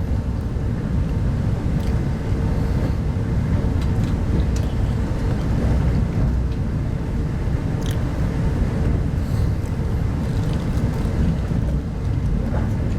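Steady low rumble of a Type 25T passenger coach running along the line, heard from inside the carriage, with a faint steady hum and a few light clicks.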